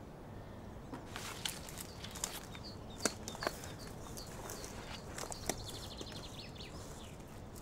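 Irregular crunching and cracking of dry leaves and twigs on a forest floor, from footsteps and sticks being handled, starting about a second in and thinning out near the end. Faint bird chirps sound through it.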